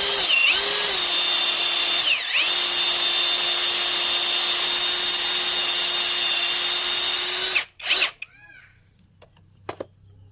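Electric hand drill running under load, drilling out a snapped motorcycle exhaust bolt. Its whine sags briefly near the start and again about two seconds in, then holds steady. The drill stops about seven and a half seconds in, with one short burst just after.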